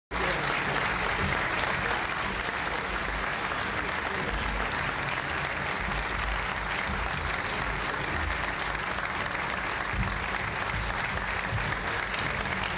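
Audience applauding, a dense steady clapping that carries on without a break.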